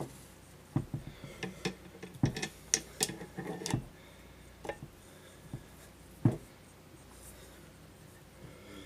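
Metal parts and tools being handled during ATV axle work: scattered light clicks and knocks, a busy cluster in the first few seconds, then a few single knocks, the loudest about six seconds in.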